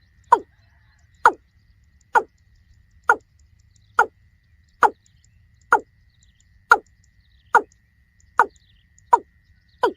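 Watercock calling: a steady series of short notes, about one a second, each falling in pitch.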